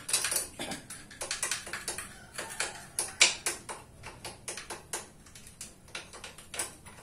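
A quick, irregular series of sharp clicks and taps, several a second, some much louder than others.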